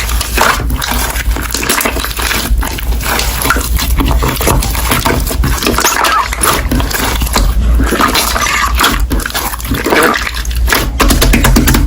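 Slime squished and pressed by hand close to the microphone, giving a continuous run of wet squelches and many small irregular clicks.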